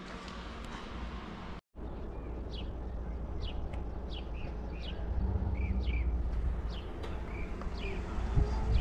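Small birds chirping outdoors, short high calls about twice a second, over a low rumble of wind on the microphone that grows stronger partway through.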